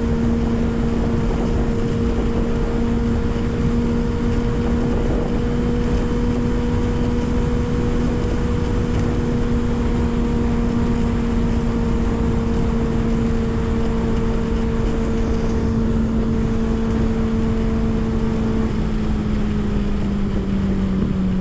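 Kawasaki ZX-6R 636's inline-four engine running at steady revs while cruising, its pitch easing down slightly near the end. Heavy wind rush on the helmet mic runs under it.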